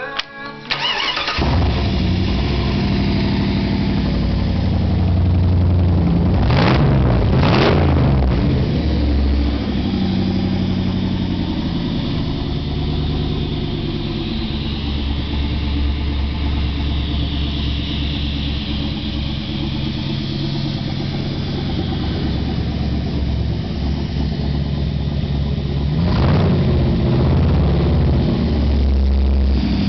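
Jeep Grand Cherokee V8 being started: it cranks briefly and catches about a second in, then idles with a deep, steady rumble. The throttle is blipped twice around six to eight seconds in and twice more near the end.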